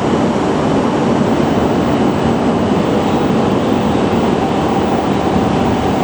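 Tohoku Shinkansen train moving along the platform at Sendai Station, a loud, steady rushing noise of the train's wheels and body.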